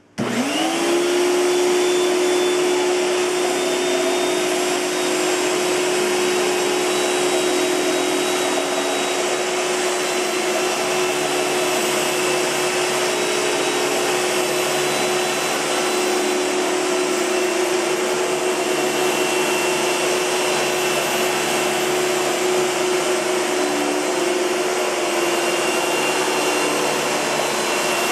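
A 1998 Hoover Futura (S3561) Power Team canister vacuum cleaner switched on: the motor spins up within about half a second to a steady hum with a rushing of air, then runs on evenly.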